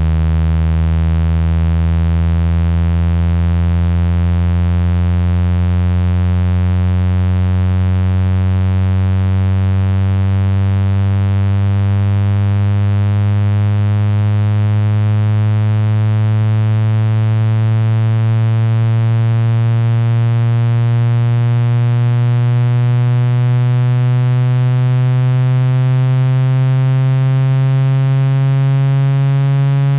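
A synthetic low-pitched buzzing tone with many overtones, slowly and steadily rising in pitch. It is a speaker-cleaning tone played to vibrate water and dust out of a phone speaker.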